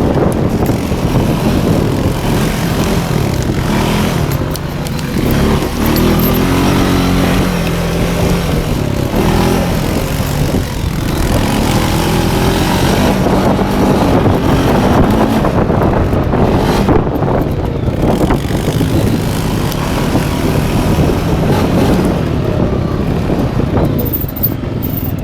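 Quad bike engine running hard and revving, its pitch rising and falling again and again as it spins donuts, over a heavy rumble.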